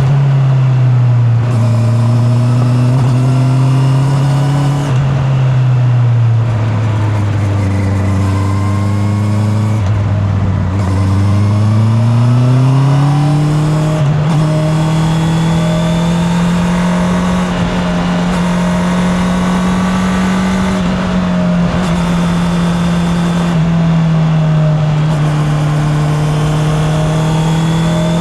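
Honda CB650R's 649 cc inline-four engine under way, heard with its exhaust note from a mic in the rider's back pocket. The note sinks as the bike slows through the first ten seconds or so, rises as it accelerates at about twelve seconds, then holds steady at cruising speed, dipping briefly a few times.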